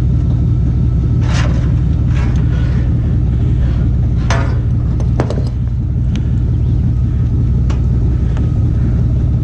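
Engine idling steadily with a low, even hum. A few short scrapes and knocks sound over it in the first half, including a couple of sharp clicks about five seconds in.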